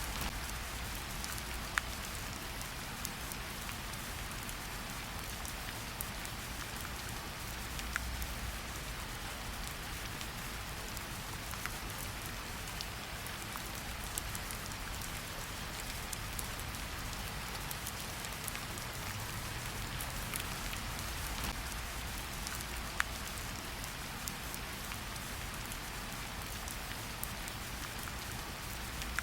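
Steady rain falling in a forest: a continuous hiss with individual drops ticking close by, a few of them louder.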